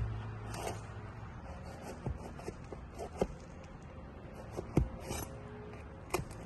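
Scraping and rubbing on asphalt 3-tab roof shingles, with four or five sharp knocks scattered through; the loudest comes about two-thirds of the way in.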